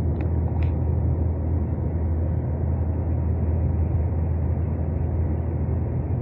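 Steady low rumble inside a high-speed train's cabin while running at speed, with two faint short ticks about half a second apart near the start.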